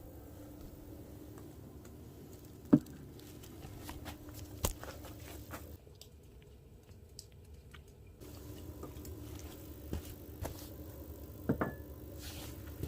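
Small wood fire crackling in a nature stove: scattered sharp ticks and pops, with a few louder knocks, the loudest about three seconds in and another near the end.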